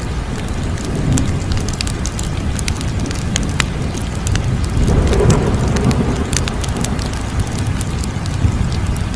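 Crackling fire: a steady low roar with scattered sharp pops and snaps. The roar swells for a moment about five seconds in.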